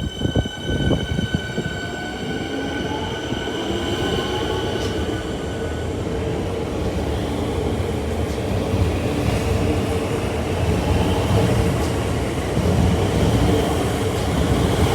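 Melbourne suburban electric train running past: a few thumps in the first second or so, a high steady tone dying away and a rising whine over the first few seconds, then a steady heavy rumble of wheels on rail that grows a little louder.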